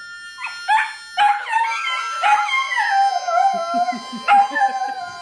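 An animal howling: a run of loud, high wailing calls that start about half a second in, slide down in pitch and run into one another.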